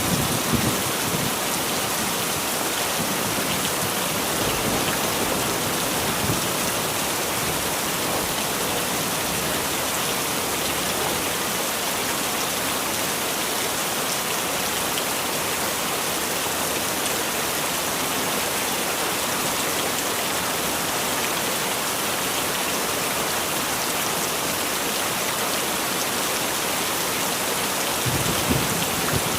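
Heavy rain falling steadily as a dense, even hiss, with low rumbles of distant thunder at the start and again near the end.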